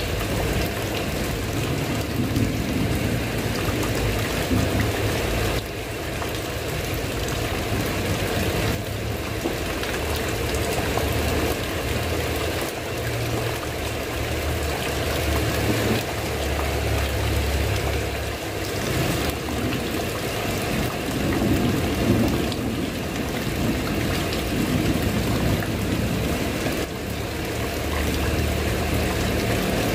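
Steady rain falling on a tiled roof, with a low rumble swelling and fading underneath.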